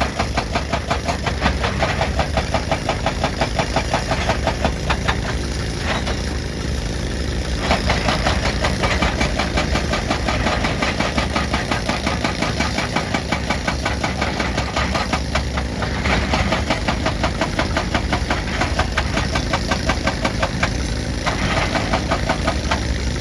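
Excavator-mounted hydraulic breaker hammer pounding rock in a rapid, even train of blows over the excavator's running diesel engine, stopping briefly a few times before starting again.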